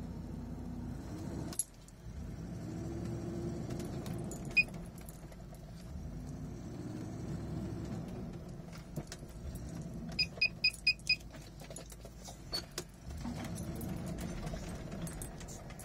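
Range Rover P38's 4.6 V8 engine, stationary, revved three times, each time rising, holding a couple of seconds and falling back toward idle, heard from the driver's seat. A quick run of five short high beeps comes about ten seconds in, with a couple of single beeps around it.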